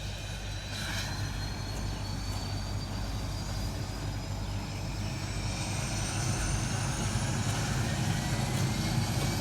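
Parachute jump plane's engine running just after start: a steady low drone with a faint high whine that rises slowly in pitch while the sound grows gradually louder.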